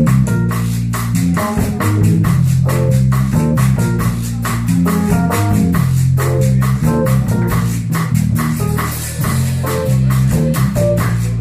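Up-tempo band music with a steady, quick beat: a moving bass line under shaker percussion.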